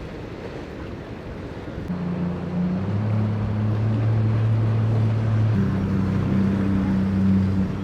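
Boat engines droning, a steady low hum that grows louder about two seconds in and shifts slightly in pitch partway through, over wind noise and surf.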